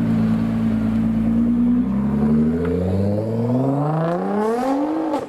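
A supercar engine runs at a steady low pitch, then accelerates, its note rising smoothly over about three seconds before cutting off abruptly.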